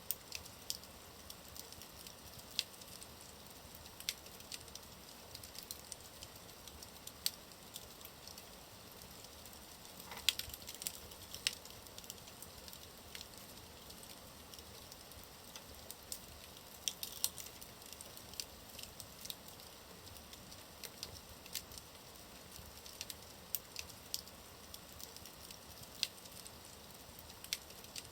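Wood fire burning in a fireplace: a faint steady hiss with irregular sharp crackles and pops of burning logs, a small burst of them about ten seconds in.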